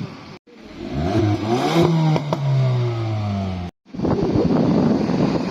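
Car engine revving: its pitch climbs quickly, holds high, then eases off. An abrupt cut stops it about three and a half seconds in, and a rough, noisy rumble follows.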